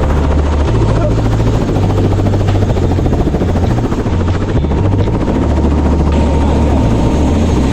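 Helicopter running loud and steady, its low rumble carrying a fast rotor chop.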